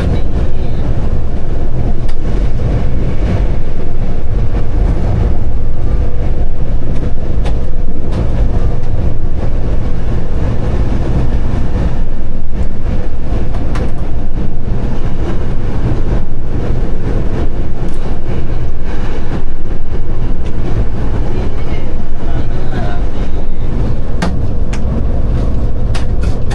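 Diesel train heard from inside the driver's cab while running: a steady loud engine and running rumble, with wheels clicking over rail joints and a few sharp clicks scattered through.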